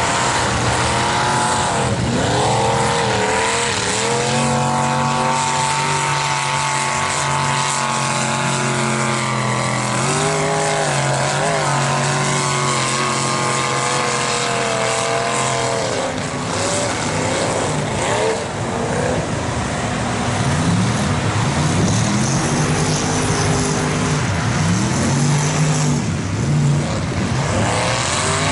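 Dodge Ram mega mud truck's engine under hard throttle, its pitch climbing and falling as it is revved. It holds a steady high note through the middle, then rises in several quick sweeps in the second half.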